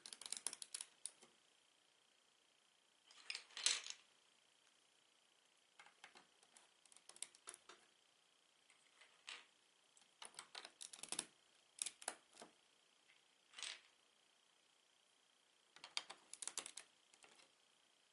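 Plastic Lego bricks clicking and rattling as they are handled, in short bursts of small clicks with pauses between, the loudest rattle about three and a half seconds in.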